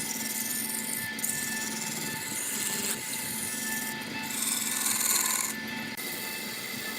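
Wood lathe running, with a turning tool scraping and cutting the spinning wood. The motor hums steadily, and the cut gets louder about four to five seconds in.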